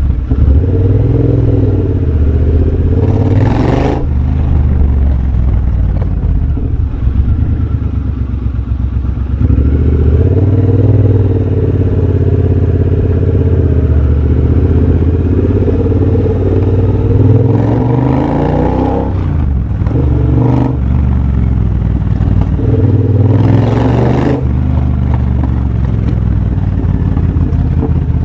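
Triumph Bobber 1200 cc parallel-twin running through a de-catted X-pipe and Motone shorty exhaust while riding, the engine note rising and falling with the throttle. Three times it opens up with a brief louder, brighter rush, about three seconds in, in the middle and near the end.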